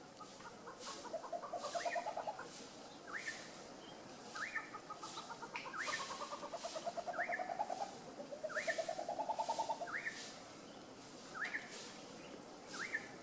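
Birds calling: a short hooked call repeated about every second and a half, with longer rapid trilled phrases, some rising in pitch.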